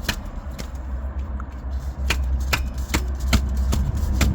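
Sharp taps on mole grips clamped round a diesel injector of a John Deere PowerTech engine, tapping it to break the grip of its O-rings and pop it up out of its bore. The taps are sparse at first, then come about two and a half a second in the second half, over a steady low rumble.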